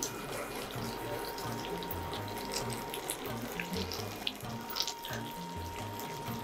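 Chicken wings sizzling steadily in hot oil and sauce in a frying pan, with small scattered crackles.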